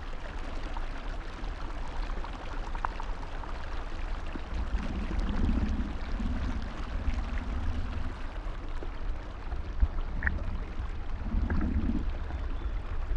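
Pond-side ambience: a steady wash of water noise over a constant low rumble, with faint greylag goose calls in the background about five seconds in and again near the end.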